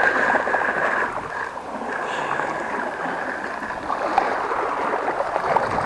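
Seawater sloshing and gurgling against rocks, with a thin steady high tone over the water noise that stops about two-thirds of the way in.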